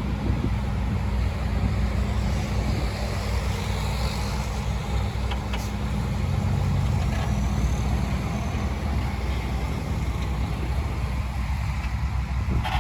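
Diesel engine of heavy earthmoving machinery running steadily, a continuous low drone.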